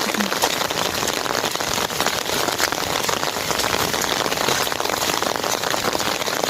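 Storm rain pouring down steadily, a dense hiss made of countless individual drops pattering on surfaces.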